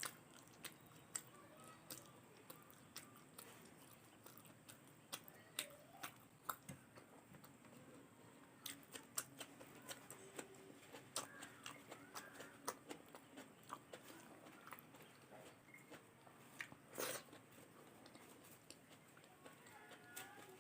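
A person chewing and eating close to the microphone, faint: soft, irregular mouth clicks and smacks, with one louder tap about seventeen seconds in.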